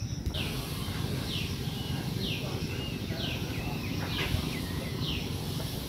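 A bird calling over and over, a short falling high note about once a second, over a steady low rumble.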